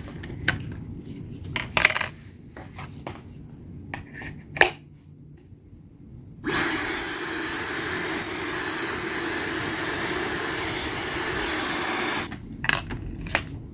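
A few seconds of clicks and handling knocks, then a Dyson Supersonic hair dryer switched on and blowing steadily for about six seconds before cutting off suddenly.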